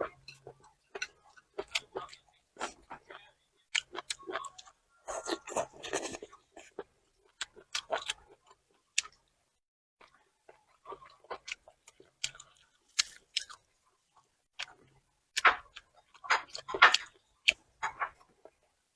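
Close-up eating: a person chewing and biting food, heard as irregular short clicks and smacks, busier for a moment about five seconds in and again near the end.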